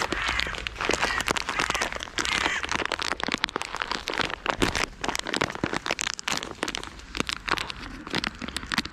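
A bag of shelled peanuts being handled and rustled, a steady run of quick crinkles and clicks.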